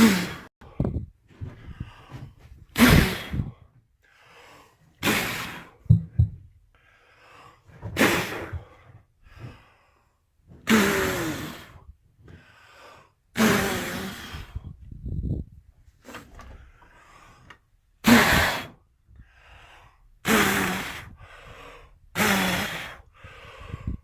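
A man blowing hard by mouth to clear snow off a battery bank: about nine forceful puffs of breath, a couple of seconds apart, with quicker gasps for air in between.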